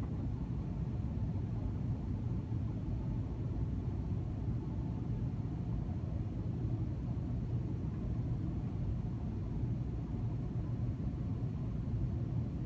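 Steady low rumble inside an airliner cabin as the jet taxis after landing.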